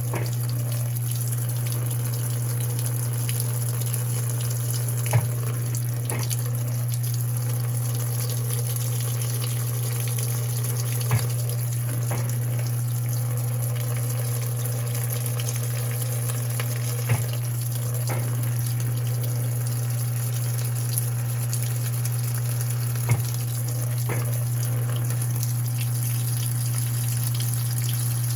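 Electrolux LPE16 washing machine moving water: rushing water over a steady electrical hum, with a faint click about every six seconds.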